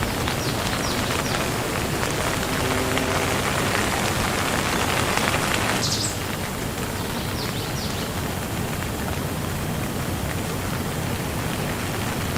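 Steady rain falling, an even hiss with a few distinct drops. About halfway through the sound changes abruptly, becoming slightly quieter and duller.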